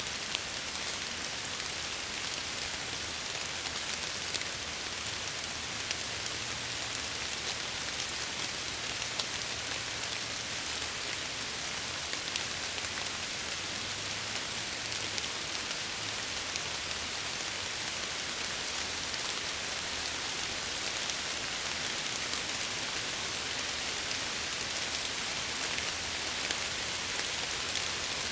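Steady heavy rain pattering against window glass, a dense even hiss with scattered fine drop ticks and a faint low rumble underneath.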